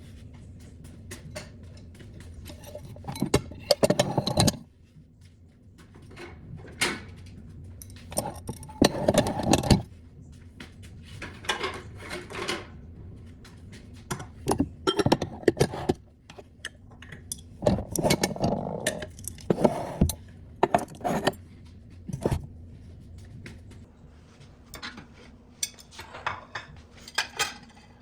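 Dishes and cutlery clinking and clattering as a dishwasher is unloaded and the items are put away: irregular clusters of clinks and knocks.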